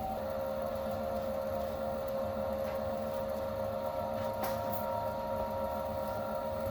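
A small electric motor whirring steadily, its pitch stepping down once at the start. A faint click comes about four and a half seconds in.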